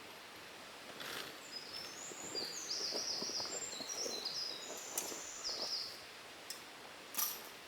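A songbird singing a fast, high warbling phrase of quick up-and-down notes for several seconds, over a steady background hiss. A few sharp clicks or taps also sound, the loudest near the end.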